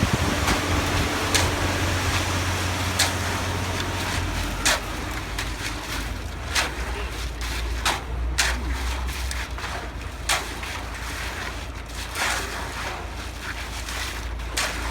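An engine running steadily at a low pitch, its note dropping a little about four and a half seconds in, with scattered sharp knocks throughout.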